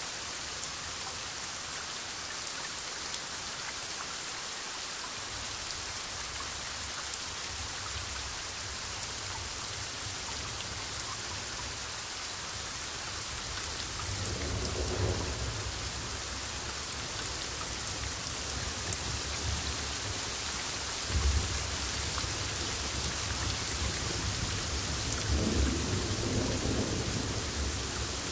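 Heavy rain falling steadily, with distant rolling thunder starting a few seconds in. The thunder swells about halfway through, gives a sharper crack a little after that, and rumbles up once more near the end.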